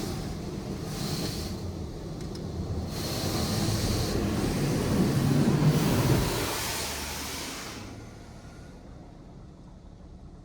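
LaserWash 360 touch-free car wash spray arm rinsing the car with water jets, heard from inside the cabin: a rushing hiss that comes and goes in waves as the spray passes, loudest about halfway, then dying down near the end.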